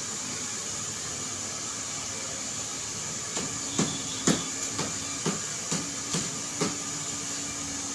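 A quick series of about nine sharp knocks or taps over roughly three seconds, irregularly spaced, over a steady hiss.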